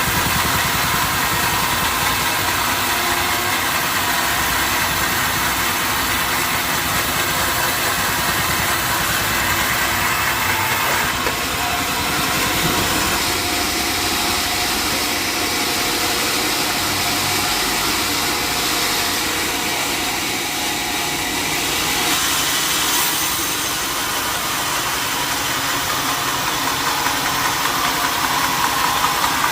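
Sawmill machinery running steadily: a loud, continuous mechanical drone with hiss, shifting a little partway through and with a tone rising near the end.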